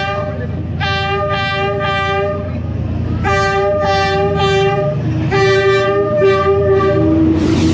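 Diesel train's horn sounding again and again in three groups of short blasts over the low, steady rumble of the locomotive, as the train comes up the narrow street. Near the end a rushing noise swells as the train draws level.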